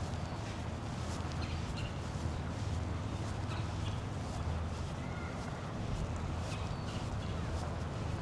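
Outdoor ambience with a steady low rumble, birds chirping in short high calls here and there, and light footsteps of someone walking.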